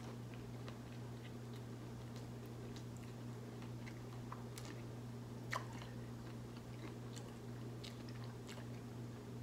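Faint closed-mouth chewing of a mouthful of fried chicken sandwich, with scattered small wet mouth clicks and one slightly louder click about five and a half seconds in, over a steady low hum.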